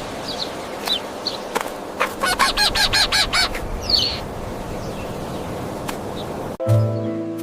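Chickens clucking, with a run of rapid, quick-fire calls about two seconds in and a single higher call soon after. Music starts near the end.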